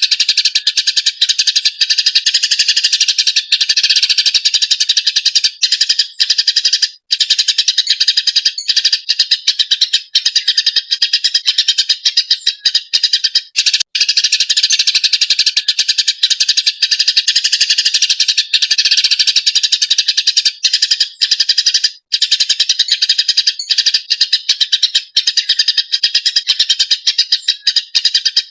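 Eurasian tree sparrow (burung gereja) chattering rapidly and without pause, a dense stream of high chirps that breaks off only a few times, very briefly.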